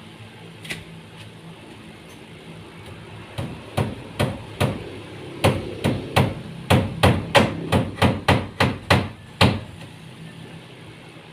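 A hammer striking nails into wood, about fifteen blows that start some three seconds in, come faster toward the end at about three a second, and stop shortly before the end.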